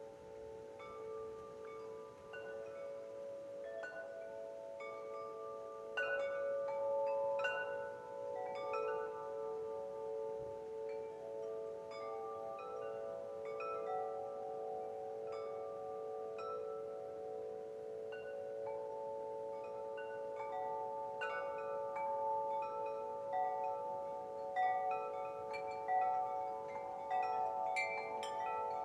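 Wind chimes ringing: several notes struck at irregular moments, their tones overlapping and ringing on, with the strikes coming more thickly near the end.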